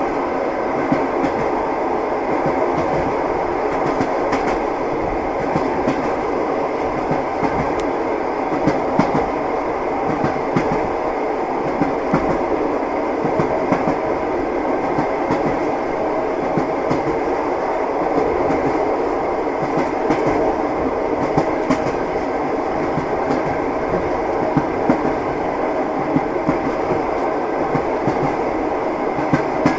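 Passenger train wheels clacking over rail joints at irregular intervals over the steady rumble of a moving carriage, heard from inside a compartment.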